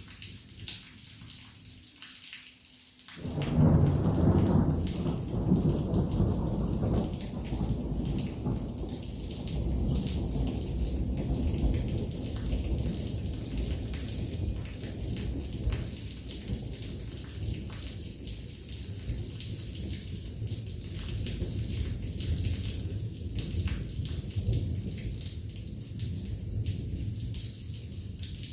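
Heavy rain falling steadily, with a sudden loud crack of thunder about three seconds in. A long rolling rumble follows and slowly eases but keeps rumbling on under the rain.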